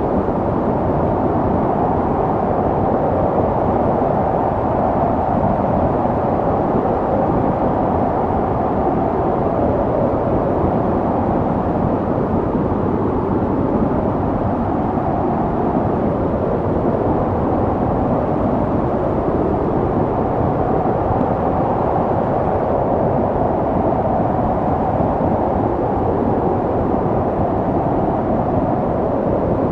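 Snowstorm wind: a steady, deep rushing noise that swells and eases slowly, with no separate events.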